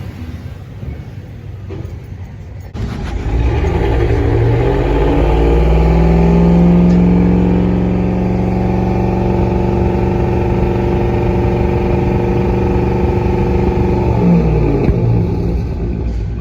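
Chevrolet 6.0L Vortec V8 engine running. About three seconds in it is revved up and held at raised speed for about ten seconds, then drops back toward idle near the end, showing a good-running engine.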